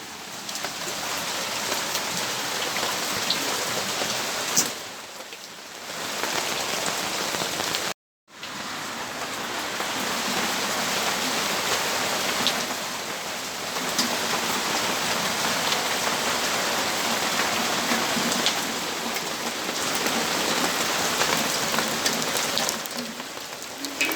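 Steady rainfall: an even hiss with a few sharper drips. It dips briefly about five seconds in, and cuts out completely for a split second about eight seconds in.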